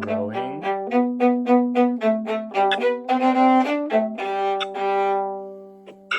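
Violin playing a tune along with a recorded accompaniment: a run of short bowed notes over a steady low note, ending on a long held note that fades away near the end.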